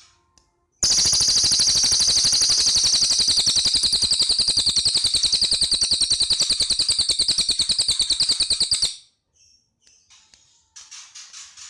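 Cililin bird singing a loud, very rapid rattling trill of about ten notes a second. The trill starts about a second in and lasts about eight seconds. A few short, quieter chirps follow near the end.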